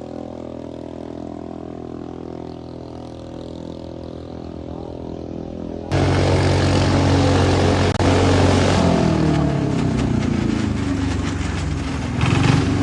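Single-cylinder Kubota diesel engine on a boat running steadily. About halfway through, the sound suddenly becomes much louder and rougher, and then the engine's pitch falls away.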